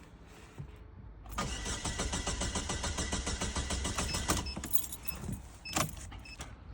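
Engine of a 2016 Barina cranking over on the starter in an even rhythm for about three seconds without catching: a crank-no-start, with no injector pulse. A few short clicks and beeps follow.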